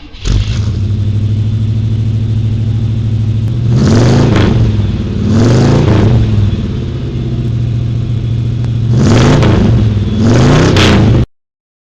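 A car engine running at a steady idle and blipped four times, each rev climbing and falling back to idle. The sound cuts off abruptly near the end.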